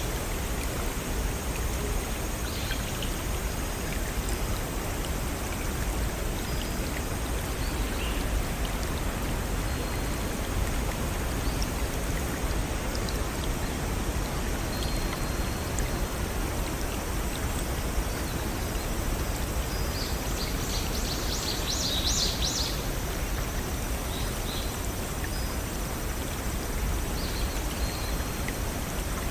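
Steady rush of a small stream running over rocks, with a few scattered bird calls on top and a quick run of high chirps about two-thirds of the way through.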